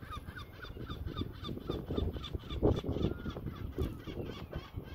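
A bird calling in quick runs of short, repeated notes, about four or five a second, over a low rumble of wind on the microphone.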